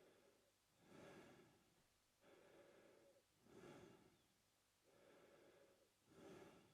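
Faint, slow mouth breathing of a man, in and out in an even rhythm of about one full breath every two and a half seconds.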